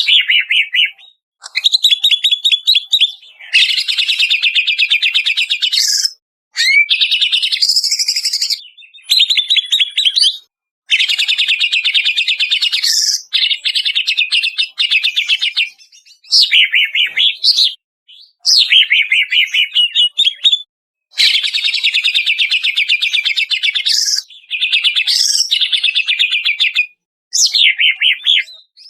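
Cucak ijo (green leafbird) song, used as a masteran recording to prompt caged birds to sing: loud phrases of fast, chattering trills a few seconds long, broken by short pauses, with some gliding whistled notes mixed in.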